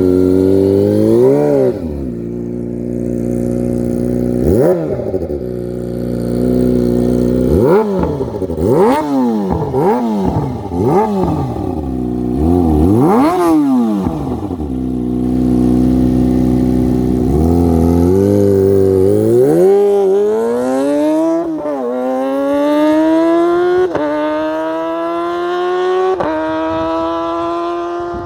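Kawasaki ZX-25R's 250 cc inline-four running through a Yakuza aftermarket racing exhaust: it idles and is blipped to high revs about eight times in quick stabs. In the last third it pulls up in pitch, with three drops in revs that sound like upshifts under hard acceleration.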